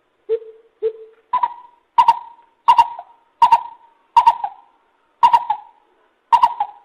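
Lesser Coucal calling: a series of hollow notes, the first two low, then a step up to about seven higher, sharper notes, each with a doubled start, coming roughly one a second.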